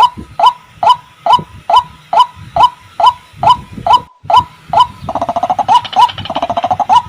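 White-breasted waterhen (ruak-ruak) calling: a loud, steady series of short, repeated notes, a little over two a second. About five seconds in, a faster, rapid stuttering call joins for about two seconds.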